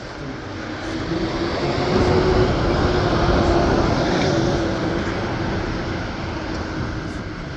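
A vehicle passing close by: a loud rushing noise with a steady low hum that swells to a peak two to four seconds in, then slowly fades.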